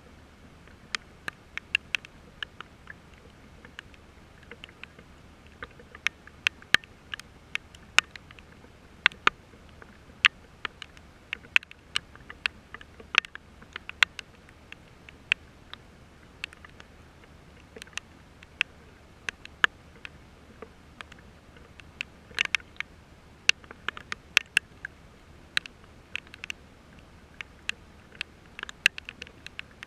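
Raindrops striking close to the microphone: irregular sharp ticks, several a second, with a faint steady low hum under them.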